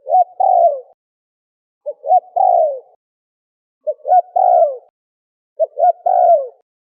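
Spotted dove (terkukur) cooing: four phrases about two seconds apart, each two short coos followed by a longer, falling coo.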